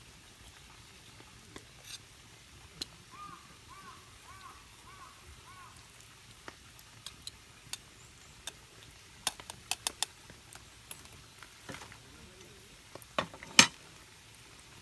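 Camp cooking: scattered clinks and knocks of utensils against cookware over a faint sizzle, with a quick run of clicks about two-thirds of the way through and a sharp knock near the end.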